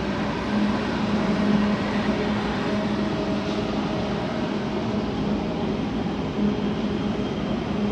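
A train running: a steady rumble with a constant low hum.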